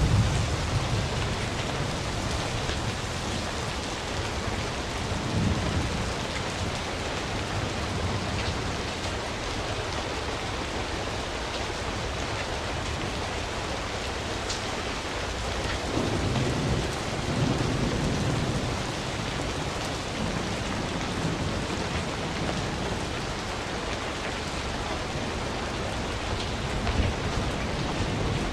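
Steady hiss of rain falling, with low rumbles swelling about five seconds in and again from about 16 to 18 seconds.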